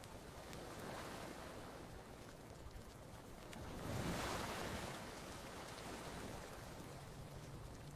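Gentle ocean waves washing onto a beach, swelling and ebbing, with the largest wave breaking about four seconds in. A few faint campfire crackles sit under the surf.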